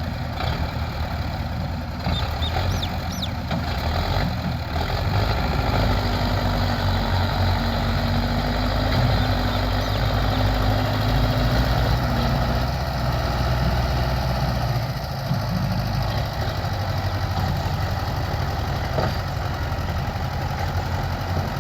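Belarus tractor's diesel engine running steadily, growing louder about five seconds in and easing back a little after about twelve seconds.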